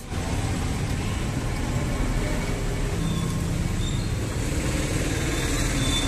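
Steady road traffic noise, motor vehicles running past without a break.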